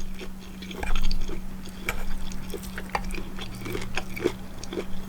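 A person chewing a mouthful of jambalaya and cornbread, close to the microphone: soft, wet mouth sounds with scattered small clicks, over a steady low hum.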